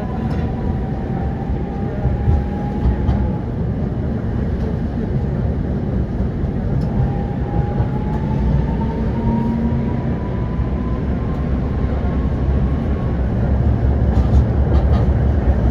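Prague tram running between stops, heard from inside the car: a steady low rumble of wheels on track, with a thin motor whine that rises slowly in pitch twice as it picks up speed, and a few short clicks near the end.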